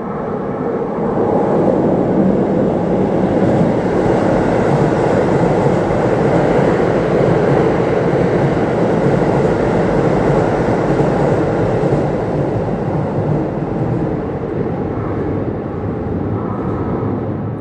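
Electric commuter train on the Keisei Oshiage Line running past: a loud, steady noise of wheels on rail that builds over the first couple of seconds and eases off near the end.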